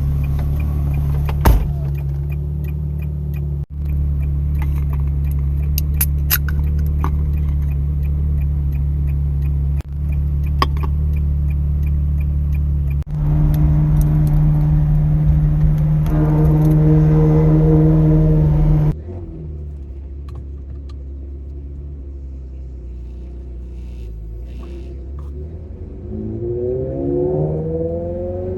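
Ferrari 360 Modena's V8 running through its modified exhaust, idling steadily with a few sudden jumps in level and a louder stretch in the middle. Near the end the revs rise. A few sharp clicks in the first seconds.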